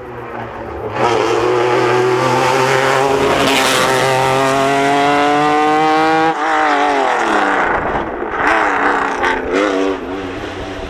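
Rally car accelerating hard toward the listener, its engine note climbing in one long pull. About six seconds in the throttle shuts off suddenly and the pitch falls as the car goes by. Near the end come a few short throttle blips and sharp pops.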